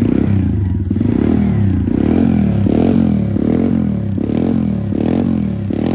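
2022 SSR 125cc single-cylinder four-stroke pit bike engine, revved in repeated short throttle blips, rising and falling about eight times. It runs smoothly without missing, in good tune.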